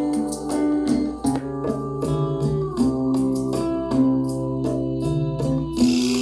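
Music played on a portable Bluetooth speaker: held keyboard chords over a steady beat of ticks, about three a second. Near the end a bright hiss comes in on top.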